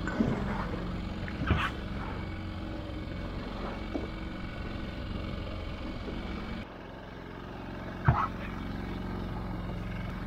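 Small boat's outboard motor running steadily at trolling speed, with a few sharp knocks on the boat, the loudest about 8 seconds in. The motor's sound drops a little about two-thirds of the way through.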